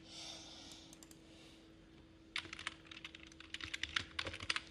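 Computer keyboard typing: a quick run of key clicks in the second half, after a soft hiss at the start.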